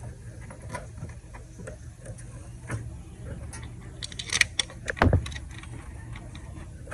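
Light metallic clicks and taps of hand tools at work on an engine, with a quick cluster of sharper clicks a little past four seconds in and a single dull knock about five seconds in, over a low steady hum.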